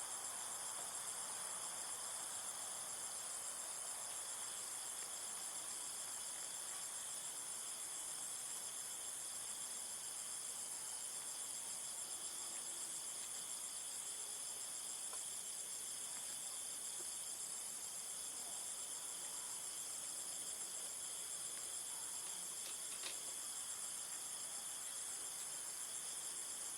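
Steady, high-pitched insect chorus, running unbroken.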